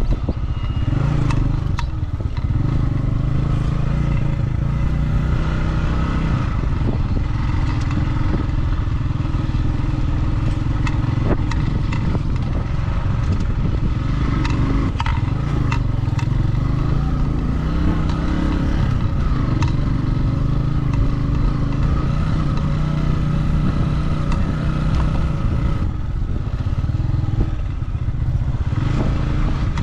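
Motorcycle engine running at a steady speed while riding, with scattered clicks and rattles.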